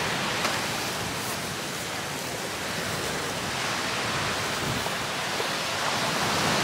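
Wind-driven surf breaking on a sandy beach, with wind blowing over the microphone: a steady rushing noise that swells slightly near the end.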